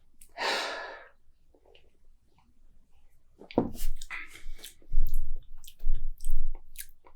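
A person taking a sip of beer and swallowing it, heard close up: a short breathy rush about half a second in, then mouth sounds and several gulps about half a second apart through the second half.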